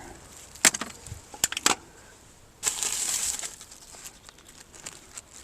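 Small loose items clicking and clinking as they are picked through by hand, then about a second of rustling around the middle.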